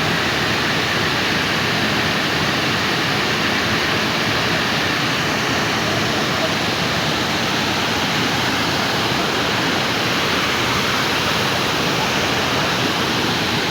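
Waterfall: a steady rush of falling, splashing water with no breaks.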